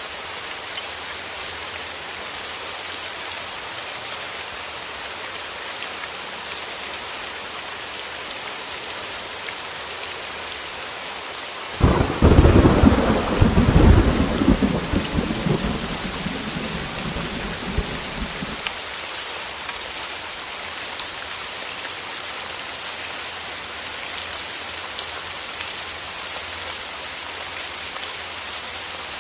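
Heavy rain falling steadily, with a sudden thunderclap partway through that rolls on as a low rumble for several seconds and fades out.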